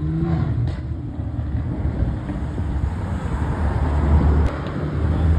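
Car engines and exhausts rumbling as cars pull away at low speed. The rumble builds over the first four seconds, then dips briefly.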